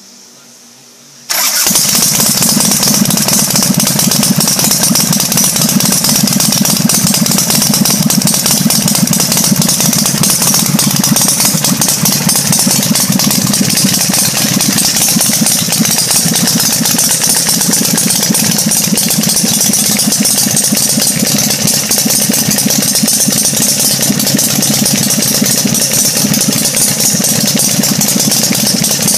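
Custom chopper's V-twin engine with straight drag pipes firing up suddenly about a second in, then running loud and steady.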